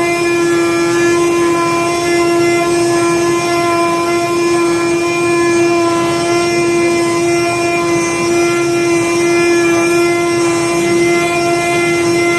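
IECHO flatbed cutting machine running while it cuts foam board: a steady, unchanging hum over a hiss.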